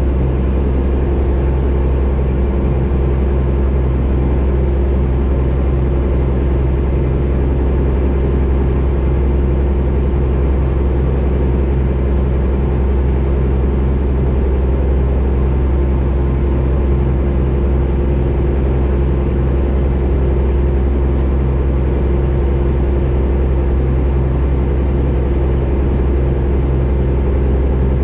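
Fishing boat's engine running steadily: a constant low drone with a steady hum, unchanged throughout.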